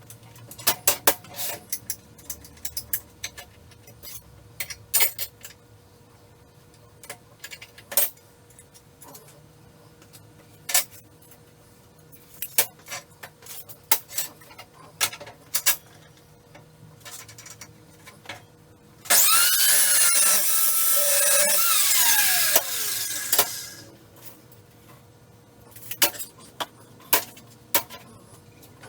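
Scattered knocks and clanks of steel pieces being handled. About nineteen seconds in, a power tool starts abruptly and cuts steel for roughly four seconds, then its pitch falls away as it spins down.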